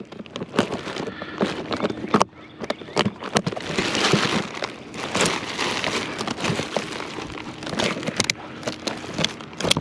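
Rustling and crinkling with many small clicks and knocks as discarded household items, bags and boxes are rummaged through by hand.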